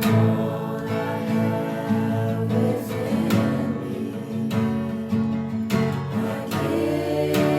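Strummed acoustic guitar playing steady chords in a worship song.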